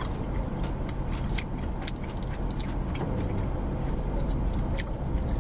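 Close-up chewing of a breaded chicken nugget: irregular wet mouth clicks and smacks over a steady low rumble.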